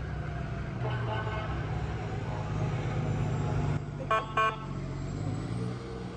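A passing parade vehicle's engine running steadily, with two short horn toots in quick succession about four seconds in.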